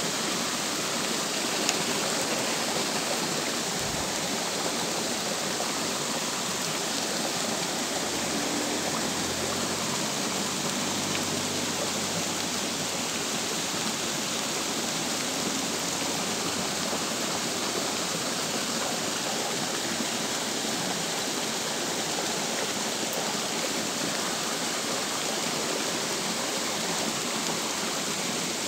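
Steady rain falling on a small, shallow stream and the leaves along its banks, an even hiss that does not change.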